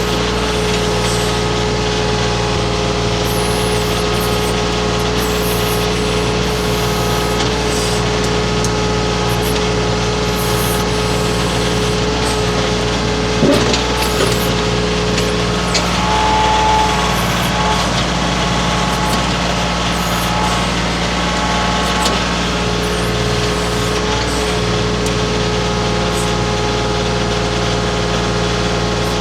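Baumalight mini skid steer's engine running steadily under work, with a sharp knock about 13 seconds in and a brief higher tone and small swell a few seconds later.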